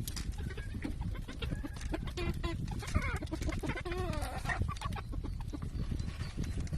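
Hens clucking and calling, a few bending squawk-like calls in the middle, over low background rumble and small knocks.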